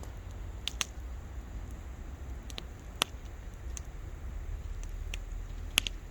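Wood bonfire crackling: sharp, irregular pops, about eight over the few seconds. The loudest comes about three seconds in and a close pair near the end, over a steady low rumble.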